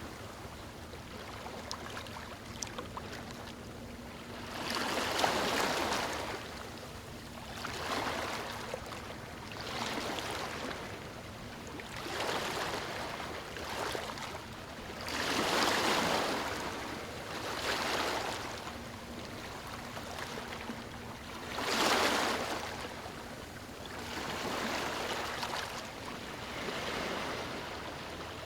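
Small waves washing in on a beach: a rushing hiss that swells and falls back every two to three seconds, some swells louder than others.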